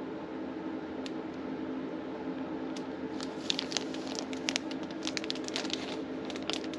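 Packaging being handled: crinkling and rustling of plastic wrap and paper, with short crackles that grow busier about halfway through, over a steady low hum.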